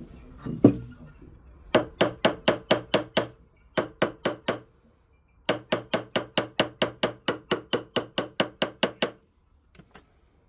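Hammer tapping an 18-karat gold ring shank, in three quick runs of light, evenly spaced taps at about five a second, each with a short metallic ring. The taps are kept light because 18-karat gold is soft, to straighten the thin shank and bring it to size.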